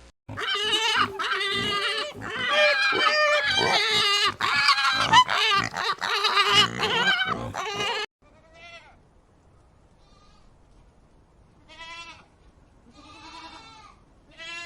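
Goats bleating: many loud, wavering bleats overlapping for the first eight seconds. Then the sound drops off suddenly, and three or four separate, quieter bleats follow.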